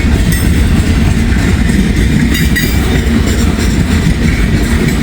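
Long freight train's cars rolling past close by with a steady, loud rumble. A few short, high metallic sounds come through about half a second and two and a half seconds in.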